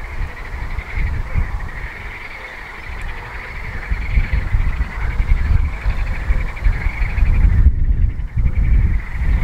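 Continuous high, fast-pulsing insect trill that breaks off near the end, over a loud, uneven low rumble.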